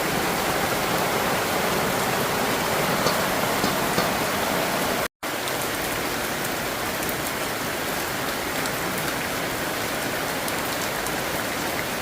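Heavy rain falling steadily as a dense, even hiss of drops. The sound breaks off completely for an instant about five seconds in.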